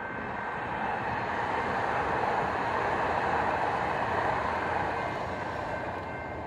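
A train rolling past at speed: a steady rushing rumble of wheels on rail that swells and then eases off near the end.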